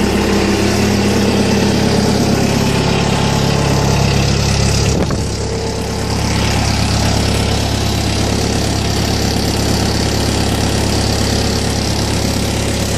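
Bobcat S250 skid steer's Kubota four-cylinder diesel engine running steadily just after a hard cold start that took about twenty cranks to catch. Its note shifts briefly about five seconds in, then runs on evenly.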